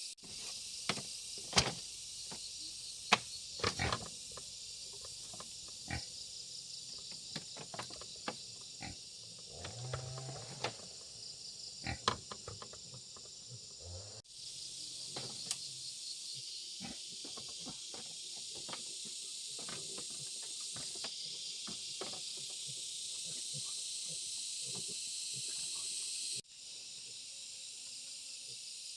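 Steady high-pitched insect chorus with scattered clicks and knocks, and a pig grunting about ten seconds in. The sound breaks off abruptly twice, at about fourteen and twenty-six seconds.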